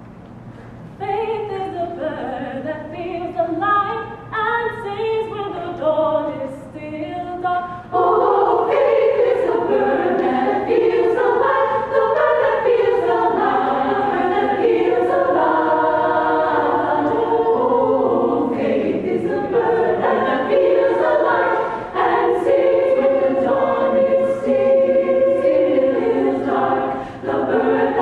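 Choir singing: fewer voices begin about a second in, and the fuller choir comes in louder about eight seconds in.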